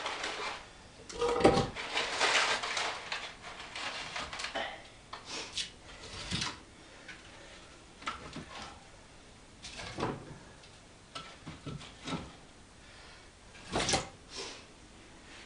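Firewood logs being laid into a fireplace firebox: irregular wooden knocks and clunks as each log is set in place, the loudest about a second and a half in and near the end.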